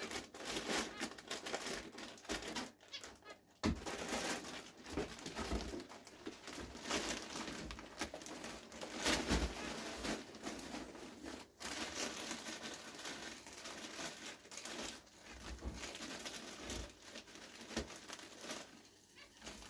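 Wood-shaving (sawdust) bedding rustling and crinkling as handfuls are pushed into a hamster cage, an irregular scratchy rustle with scattered small clicks.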